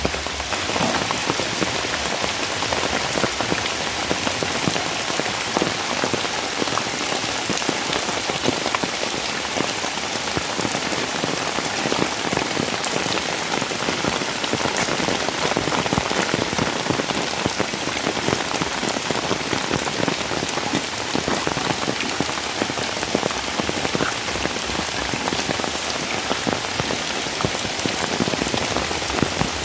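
Steady heavy rain falling on surfaces, a dense patter of drops.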